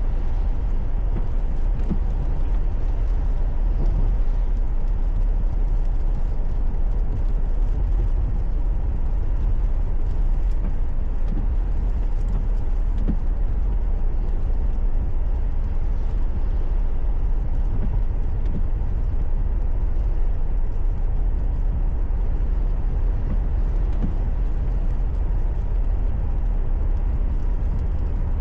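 Steady low rumble of a car on the move, mostly tyre and engine noise, heard from inside the cabin.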